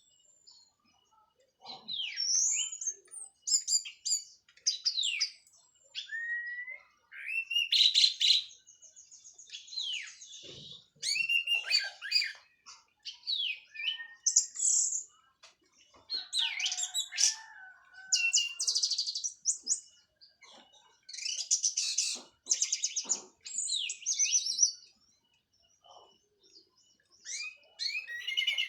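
Orange-headed thrush (anis merah) of the 'teler' type, freshly through its moult, singing a varied song of high whistled slurs and chirps broken by fast buzzy trills, in bursts with short pauses between them.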